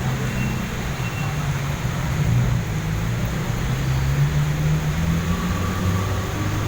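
Road traffic in the rain: vehicle engines running steadily as a low rumble that shifts slowly in pitch, under an even hiss of rain and wet road.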